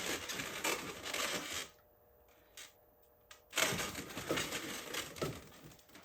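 Latex twisting balloons (260s) being handled and worked together by hand: rubbing, crinkling and clicking noises, with a pause of about two seconds in the middle.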